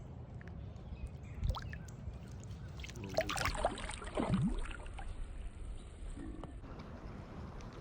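Water splashing in a short burst about three to four and a half seconds in, over a low steady rumble.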